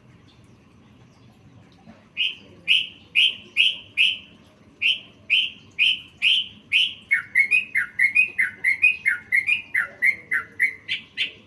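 Yellow-vented bulbul (trucukan) singing after about two seconds of quiet. It starts with short, clear repeated notes about two a second, then breaks into a quicker run of falling notes about four a second.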